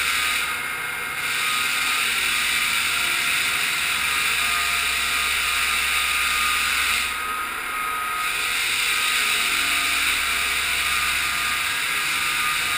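Floor sander with an on-board dust vacuum running steadily, a mix of motor hum and rushing air, with two brief dips in level, about half a second in and about seven seconds in.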